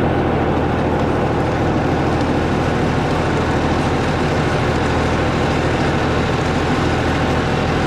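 Massey Ferguson 2606H tractor's diesel engine running steadily while working dirt, with a rough, busy mechanical sound over its engine note.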